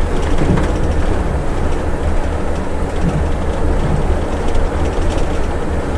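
Scania bus heard from the driver's seat, its engine and drivetrain running steadily with road rumble while descending a mountain grade in fourth gear on the engine brake.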